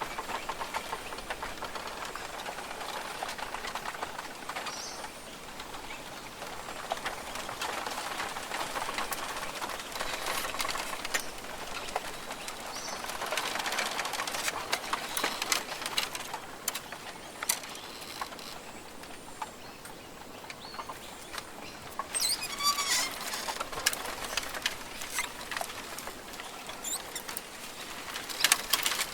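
Rainforest ambience: a steady crackling, clicking background that swells and ebbs, with bird calls through it and a bright burst of chirping about three-quarters of the way through.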